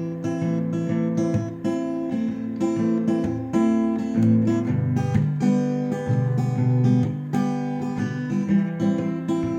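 Acoustic guitar strummed in a steady rhythm, chords changing: an instrumental break in a country-folk song, with no singing.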